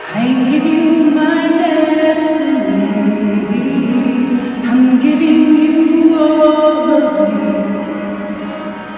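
Music: a voice sings long held notes without clear words, moving slowly from note to note over a soft accompaniment.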